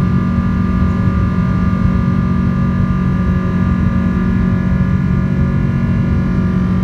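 Airliner jet engines and airflow droning steadily, heard inside the cabin: a strong low hum with several steady higher tones over a rumble.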